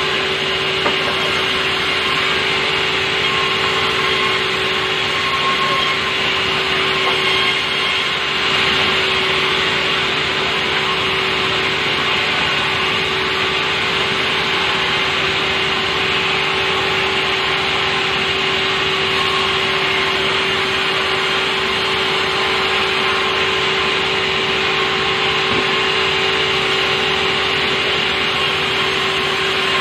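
Sawmill saw running and cutting softwood, a loud, steady machine whine and rasp with no break.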